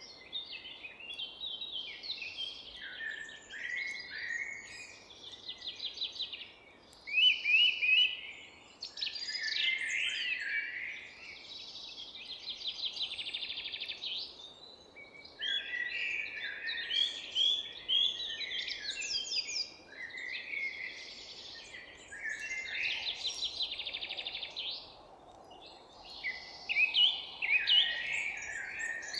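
Several forest songbirds singing and chirping at once: a continuous chorus of overlapping short calls, quick trills and warbles, over a faint steady background hiss.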